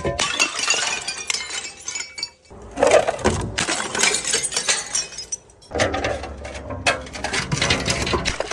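Glass bottles smashing, with broken glass clinking and tinkling, in three bouts of crashing separated by short lulls.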